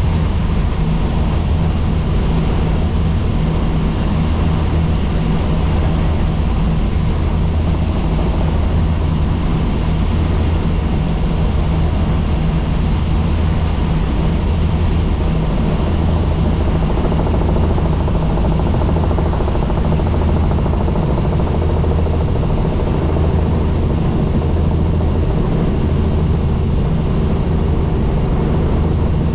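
Helicopter in flight: the steady drone of rotor and turbine, with a low throb from the rotor.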